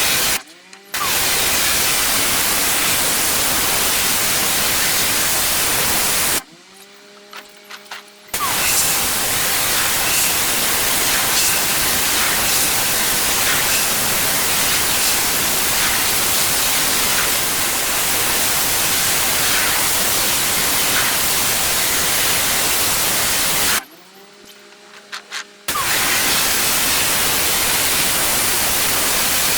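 Pressure washer jet spraying with a steady loud hiss, cut off three times when the trigger is let go: briefly just after the start, for about two seconds around a quarter of the way in, and again for about two seconds near the end. In the gaps the machine's motor and pump can be heard humming on their own.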